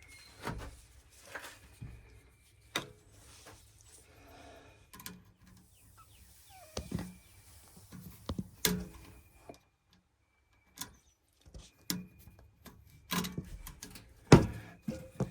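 Irregular clicks, taps and knocks of hands and tools working on electrical wiring, with short quiet gaps and one louder knock near the end.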